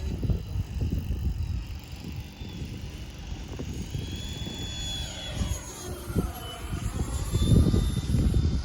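Electric ducted fans of a Freewing F-22 Raptor RC jet whining in flight. The pitch sweeps down as it passes by about five seconds in. Gusty wind rumbles on the microphone throughout.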